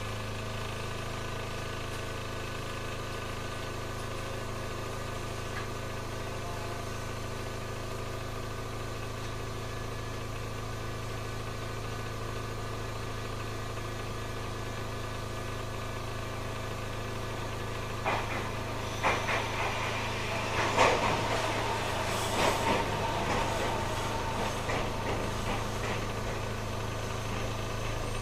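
Inside a standing Yokkaichi Asunaro Railway narrow-gauge electric railcar, heard from near the floor: a steady low hum from the car's onboard equipment. About 18 seconds in a run of clicks and knocks begins, with a burst of hissing a few seconds later.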